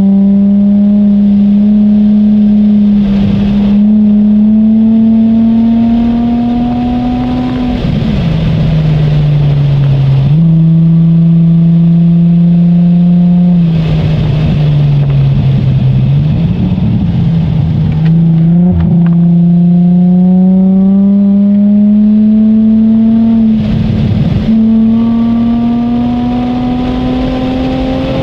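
A car engine heard from inside the cabin at speed on a race track, with steady wind and tyre noise. The engine note climbs slowly as the car accelerates, drops sharply about eight seconds in, and jumps up again a couple of seconds later. It sags and then climbs steadily once more, with a short drop at a shift about four seconds before the end.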